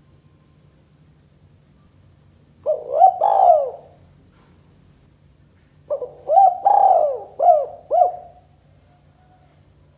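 Spotted dove (tekukur) cooing: two phrases of rounded coo notes, a short one about three seconds in and a longer one of several notes about six seconds in.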